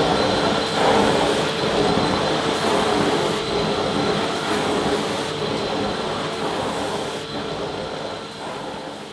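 Vacuum cleaner running steadily, a rushing whoosh with a steady whine, fading out gradually over the last few seconds.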